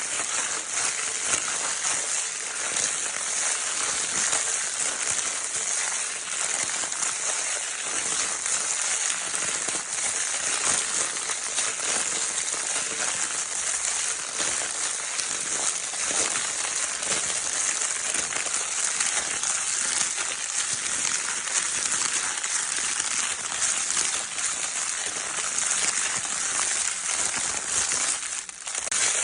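Crinkle paper of a baby's crinkle toy being crinkled continuously: a dense, steady rustling crackle of many fine ticks, with a brief dip just before the end.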